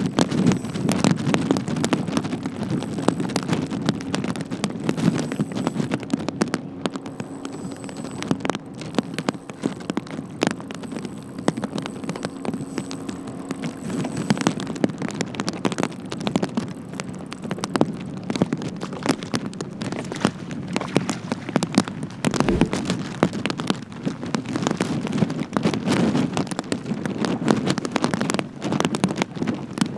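Rain pattering on the boat and microphone, a dense run of irregular sharp taps over a low hiss of wind.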